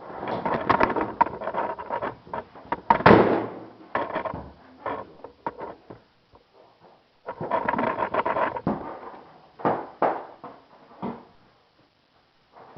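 Wing mold being pried off a molded wing part: irregular bursts of scraping and creaking with sharp cracks as it pops loose, the loudest crack about three seconds in, and a pause around six seconds.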